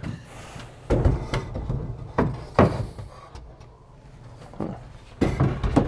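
Wooden sauna backrest boards knocking and sliding against the wooden bench frame as they are set into place: a few separate knocks and thuds, with a quick cluster of them near the end.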